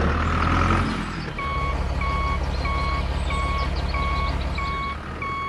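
A truck's reversing alarm beeping evenly, a bit faster than once a second, starting about a second and a half in, over the steady low drone of a running engine.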